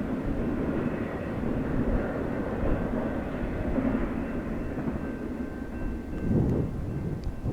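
Freight train rolling past: a steady, heavy rumble of wheels and cars on the rails.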